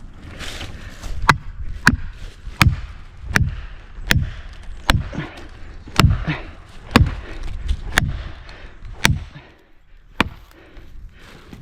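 Felling wedges being driven into the back cut of a large tree with about eleven sharp, ringing strikes, roughly one a second, which stop shortly before the end. The wedging lifts the trunk to push the tree over toward its intended fall.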